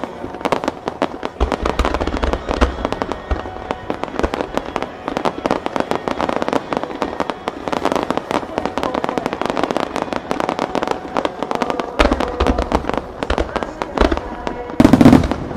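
Starmine fireworks barrage: many shells bursting in quick succession, a dense run of cracks and bangs with deep booms, the loudest bangs near the end.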